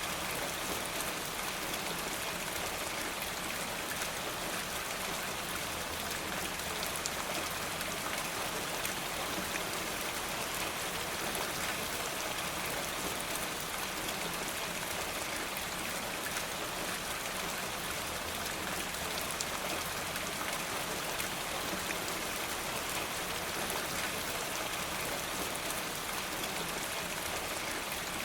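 Steady rain falling, a dense even hiss of many small drops that keeps up without a break.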